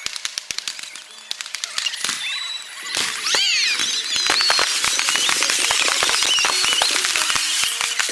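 Fireworks crackling with many rapid sharp pops. About three seconds in a falling whistle sounds, and then the crackling grows louder and denser.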